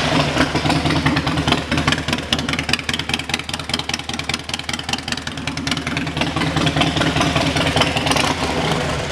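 A 2005 Harley-Davidson Dyna Low Rider's fuel-injected Twin Cam 88 V-twin idling through Vance & Hines exhaust pipes on a stage 1 kit. It is loud, with a steady, rapid pulsing beat.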